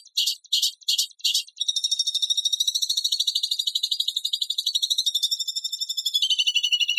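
Recorded songbird training material: a few separate sharp, high-pitched notes about three a second, then a fast, harsh high trill that drops a little lower in pitch near the end.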